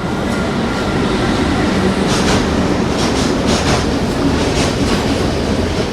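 Metro train running, a steady rumble with repeated clacks of the wheels over the rails.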